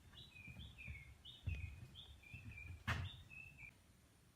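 A bird singing a series of short, high chirped notes, about two a second, some falling in pitch. Low thumps and a sharp click about three seconds in.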